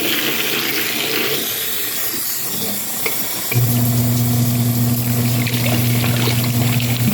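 Water splashing in the wash tub of a Kuppet twin tub portable washing machine. About three and a half seconds in, the washer's motor switches on with a steady low hum that runs on.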